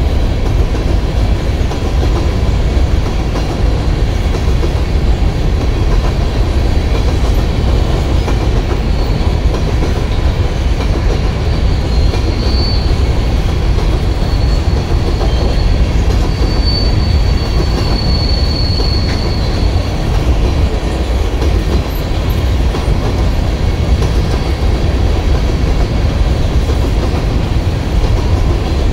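Covered hopper cars of a BNSF freight train rolling past: a loud, steady rumble of steel wheels on rail. A faint high wheel squeal comes and goes in the middle.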